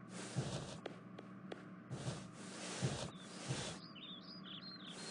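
Faint background ambience: a low hiss with a few soft clicks, and a bird chirping briefly about four seconds in.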